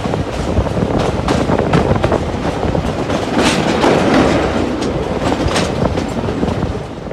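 Train running on rails, its wheels clattering over the rail joints with a steady rushing noise, dropping away just before the end.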